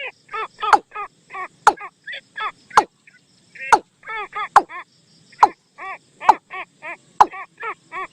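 A bird call played as a decoy: short arched notes repeated quickly in runs of three or four, with sharp clicks about once a second.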